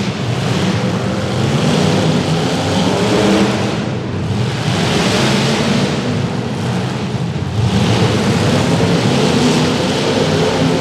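Several demolition derby cars' engines running loudly together, a dense continuous engine noise with no sharp crashes standing out.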